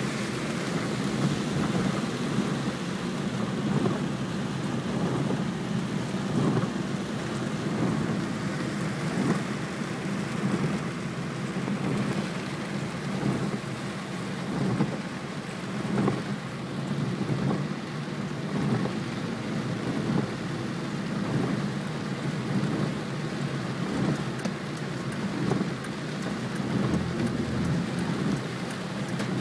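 Heavy rain drumming on a car's windshield and body, heard from inside the moving car over a steady low rumble of road noise.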